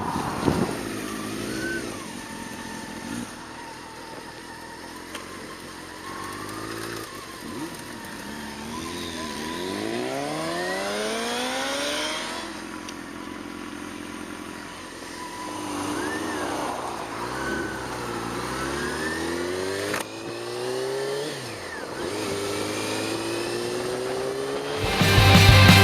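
Motorcycle engine pulling hard through the gears, its pitch climbing and dropping back at each upshift several times over, with wind noise. Loud rock music cuts in near the end.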